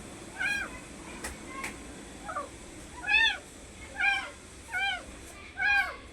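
Kittens meowing repeatedly: about six short, high calls, each rising and falling in pitch, with a couple of light clicks early on.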